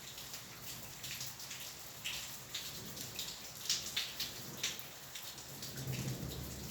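Rain falling, with many separate heavy drops striking a surface over a steady hiss. A low rumble of distant thunder starts near the end.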